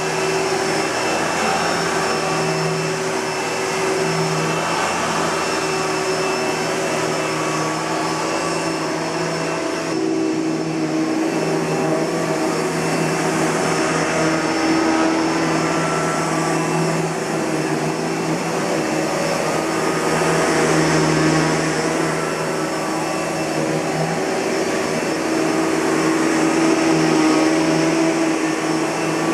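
Kenmore Progressive 116.31069110 bagged upright vacuum cleaner, built by Panasonic, running steadily at full power, its motor tones wavering slightly in pitch and level.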